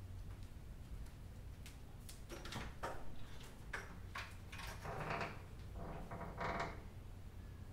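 Several short creaks and clicks, each lasting a few tenths of a second, over a low steady hum.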